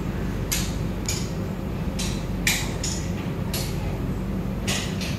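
Passenger train pulling slowly away from a station, heard from an open coach doorway: a steady low rumble with short, irregular hissing clicks about every half second to a second.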